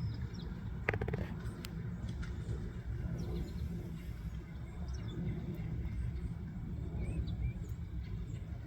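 Outdoor woodland ambience: a steady low rumble, faint scattered bird chirps, and a brief cluster of sharp clicks about a second in.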